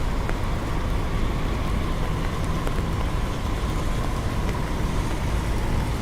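Steady city traffic rumble in the rain, with the hiss of rain and a faint tone that sinks slowly in pitch.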